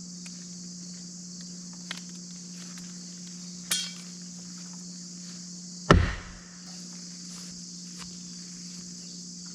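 A thrown half-size axe striking the wooden shed wall with one heavy thunk about six seconds in. Crickets chirr steadily underneath, along with a steady low hum and a brief high-pitched ring shortly before the strike.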